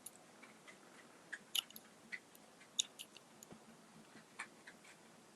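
Faint, scattered small clicks and ticks at irregular intervals over low room hiss.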